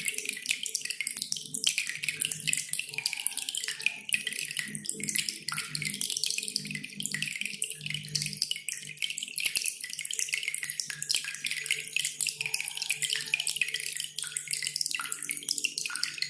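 Cililin bird singing a rapid, dense, loud string of sharp chirps and clicks without pause, over a steady background of dripping, trickling water.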